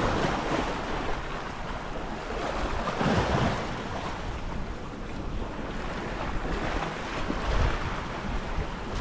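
Sea waves washing against shoreline rocks, swelling and easing, with wind buffeting the microphone.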